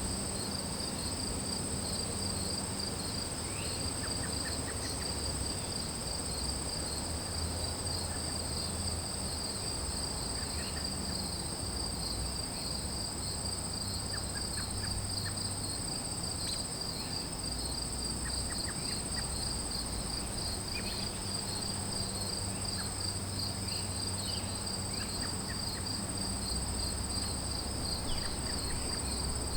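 Chorus of crickets and other singing insects: a steady, very high-pitched trill with a rapidly pulsing trill a little lower, going on without a break, over a faint low rumble.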